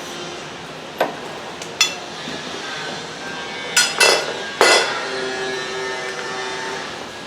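Hammer blows on metal: about five sharp, ringing strikes, the loudest two just past the middle, over a steady background hiss.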